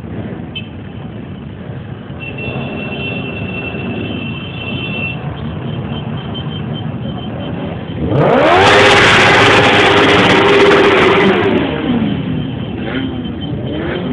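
Motorcycle engine running under way with wind noise on the microphone; about 8 seconds in it gets much louder as the engine revs up, holds, then drops back about three seconds later.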